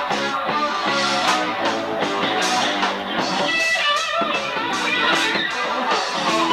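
Live band playing an instrumental passage: electric guitar over bass and drums.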